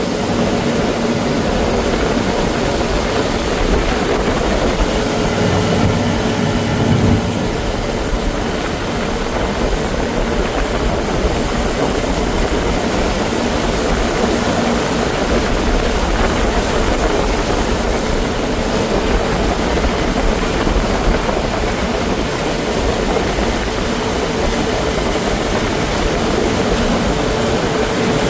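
Johnson 20 hp two-cylinder two-stroke outboard motor running at a steady speed with the boat under way, under a steady rushing noise.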